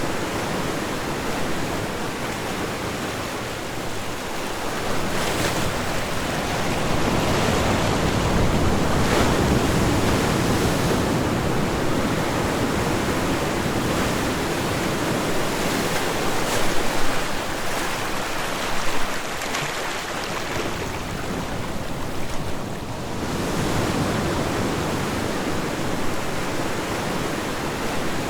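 Ocean waves breaking and washing on a shore in a continuous rush of surf, swelling and easing every several seconds.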